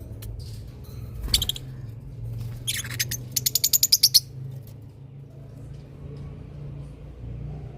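A bird calling: a short call about a second in, then a quick trill of about ten rapid notes a little past halfway, over a steady low hum.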